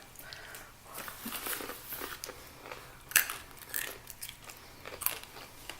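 Someone chewing crunchy cinnamon swirl kettle pops, with irregular crisp crunches, two louder bites about three and five seconds in.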